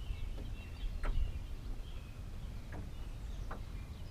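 Outdoor ambience: birds chirping faintly over a steady low rumble, with a few brief sharp calls or clicks.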